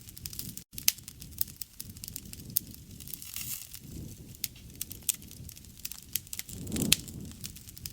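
Wood fire crackling, with irregular sharp pops and snaps over a low rush of burning flame that swells about four seconds in and again near the end. The sound drops out for an instant under a second in.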